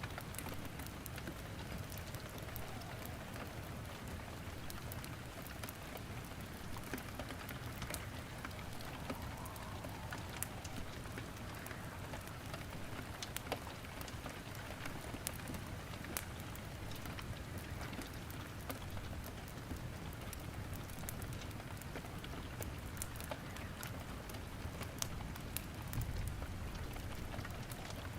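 Steady rain falling, mixed with the sharp, irregular crackles and pops of burning wood in a fireplace.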